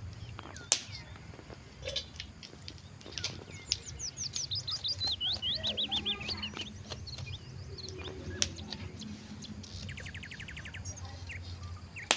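Songbirds singing: a quick run of high notes, each sweeping downward, fills the middle, and a fast, even trill comes near the end. A couple of sharp clicks fall in between, over a steady low hum.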